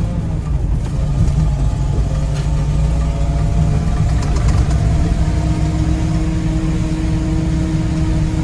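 Ford F800 grain truck's engine running steadily under load as the truck drives, heard from inside the cab; the engine note shifts about five seconds in.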